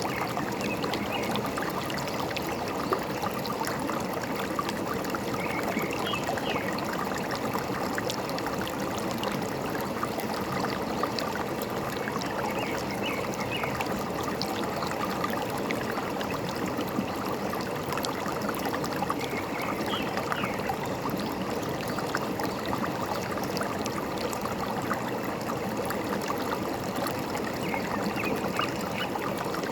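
Forest stream flowing and trickling steadily, with a bird giving brief chirps about every seven seconds, five times.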